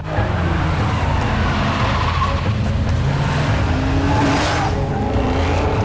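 Car engines running hard at speed with tyre noise, a vehicle rushing past about four and a half seconds in.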